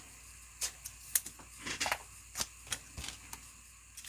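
Trading cards being handled on a table: a scatter of light, irregular clicks and taps.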